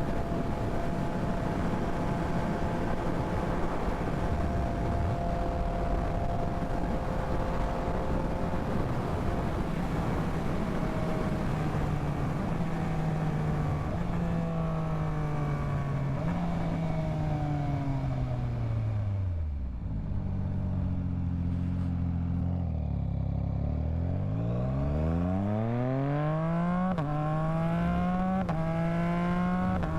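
Yamaha MT-09's three-cylinder engine, heard with wind rush, holds a steady cruise. About two-thirds through, the engine note falls as the bike slows and settles low near idle for a few seconds. It then rises again as the bike accelerates away, with a gear change near the end.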